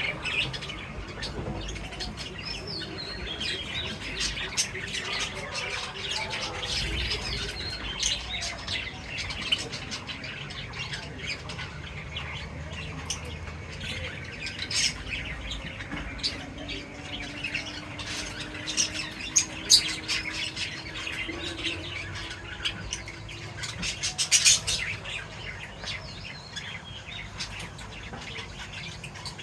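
Pet birds chirping and squawking continuously in many short overlapping calls, with a few louder, sharper squawks about two-thirds of the way through.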